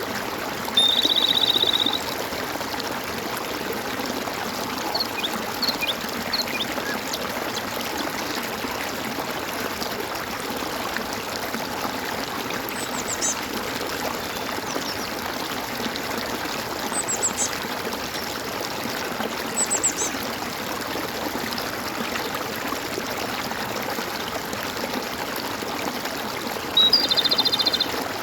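Stream water gurgling and trickling steadily, with a few short high bird chirps scattered through. Near the start and again near the end comes a loud buzzy trill lasting about a second.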